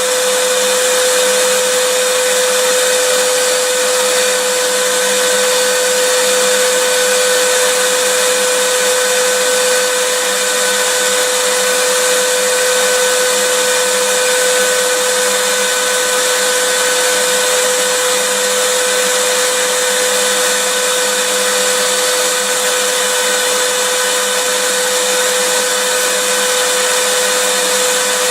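Vacuum cleaner running steadily: an even rushing of air with a constant motor whine, unchanging throughout.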